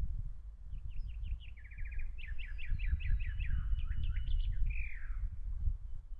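A songbird sings one phrase of quick high notes: a short run, a fast trill, a string of repeated falling notes, then a slurred falling note at the end. A steady low rumble of wind on the microphone runs underneath.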